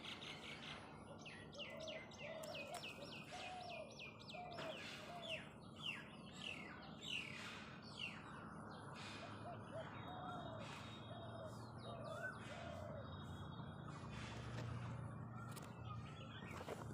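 Several birds chirping and calling: quick runs of short, high, down-sweeping chirps, with a lower short call repeated underneath.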